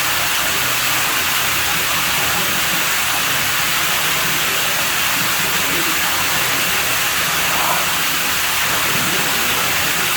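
Water running steadily at a pool villa, a constant rushing hiss that does not change.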